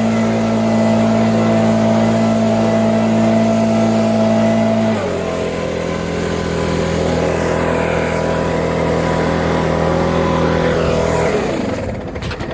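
Small gasoline engine running steadily at high speed, throttled down to a lower speed about five seconds in, then shut off and winding down to a stop near the end.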